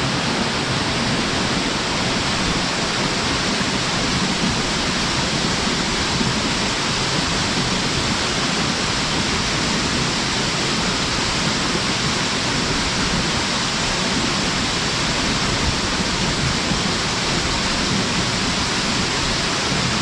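A waterfall pouring with force into its plunge pool: a steady, even rush of falling water that does not let up.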